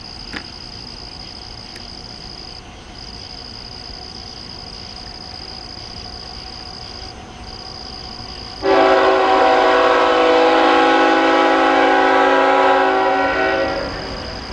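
Approaching freight locomotive's air horn sounds one long chord-like blast of about five seconds, starting a little past halfway and tailing off near the end, over a steady high-pitched insect trill.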